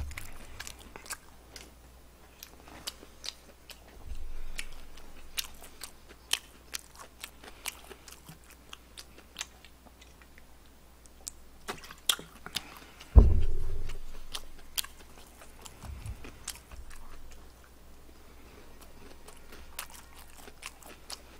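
Close-up chewing and crunching of fried chicken, with many short crisp clicks throughout. One louder thump comes about thirteen seconds in.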